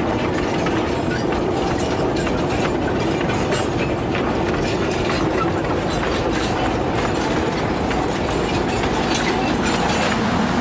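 Narrow-gauge sugar cane train of the Taiwan Sugar Company's Nanzhou railway running steadily over the track, its cane wagons rattling with many small clicks and knocks from the wheels and couplings.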